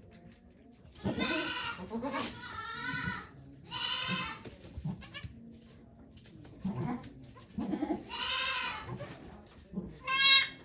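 Goat bleating repeatedly: four or five high-pitched calls a few seconds apart, the last one short near the end.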